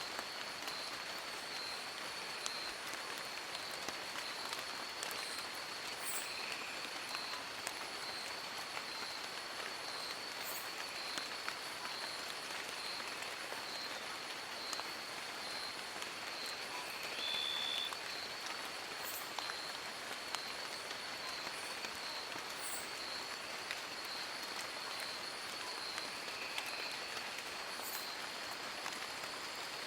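Steady rain falling on forest leaves, a dense patter of many small drops. Behind it runs a steady high-pitched trill, with a brief higher note about 17 seconds in.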